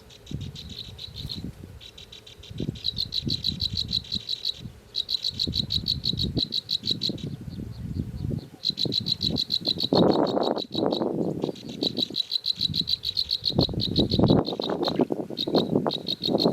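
A calling animal's fast, high-pitched pulsing trill repeats in bouts of a second or two. Beneath it runs low rustling and knocking, which grows louder about ten seconds in and again near the end.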